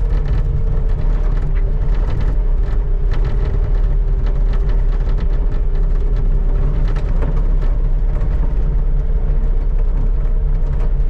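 Skid steer engine running steadily, with a steady whine over it and scattered short knocks and scrapes as the bucket scrapes snow off pavement.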